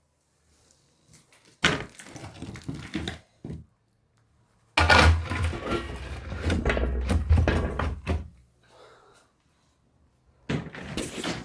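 Knocks and handling noises in several separate bursts, the longest and loudest lasting about three seconds from about five seconds in.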